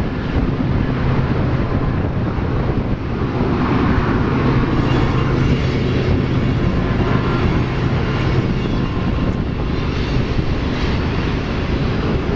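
A Union Pacific mixed-freight train's cars rolling past at a distance: a steady rumble of wheels on rail with a low hum underneath. Wind buffets the microphone.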